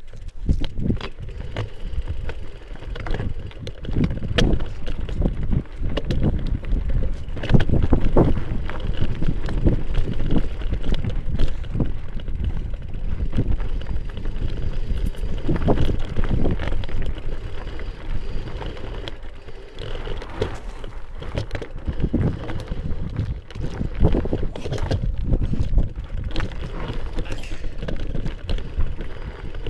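Mountain bike ridden over a rough dirt trail: a continuous rumble of wind on the action camera's microphone and tyres on the ground, broken by frequent irregular knocks and rattles as the bike jolts over bumps.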